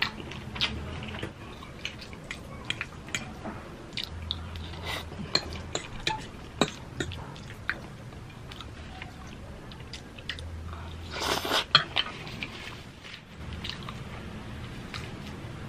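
Close-up chewing and biting of Jollibee Chickenjoy fried chicken: wet mouth sounds with many short clicks and crackles, and a louder run of crackles about two-thirds of the way through.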